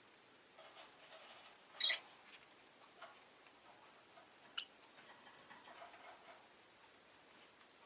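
Rosy-faced lovebird giving one short, sharp chirp about two seconds in, then a brief high tick a few seconds later, with faint small ticks and rustles in between.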